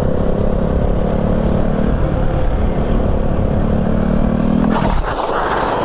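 Motorcycle engine running under throttle, its pitch creeping slowly upward, then a rush of hissy noise near the end.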